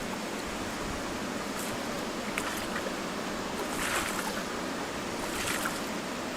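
Canoe on a river: steady water noise with a few brief splashes, about one and a half seconds apart, of a paddle stroking the water.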